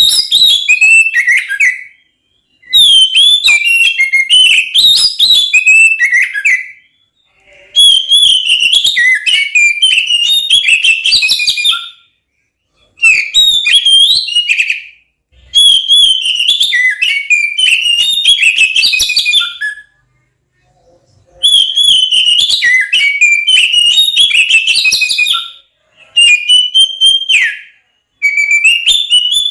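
Oriental magpie-robin (kacer) singing loudly in fighting mode: bursts of rapid, varied whistled phrases a few seconds long, about eight of them, with short pauses between. This is aggressive territorial song, of the kind used to provoke other magpie-robins.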